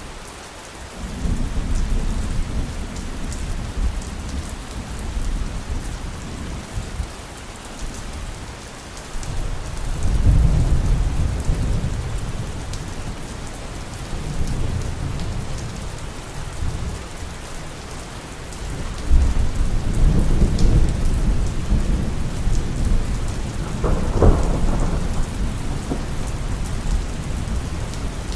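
Steady heavy rain with rolling thunder: several long low rumbles swell and fade, and a sharper thunderclap comes near the end.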